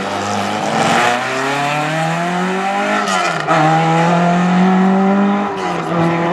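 Classic rally car's engine accelerating away from a hairpin. The revs climb, fall at a gear change about three seconds in, then hold high until they ease off near the end.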